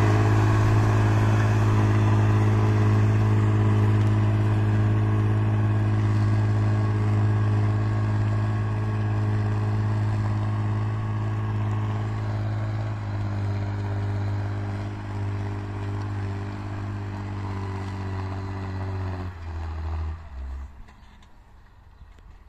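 Fendt tractor's diesel engine running steadily, slowly getting quieter. About nineteen seconds in its note drops, and the sound falls away to a faint background.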